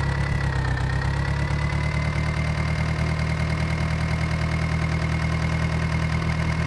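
Tractor diesel engine running steadily, with a thin high whine over the low engine note that rises a little in the first couple of seconds and then holds.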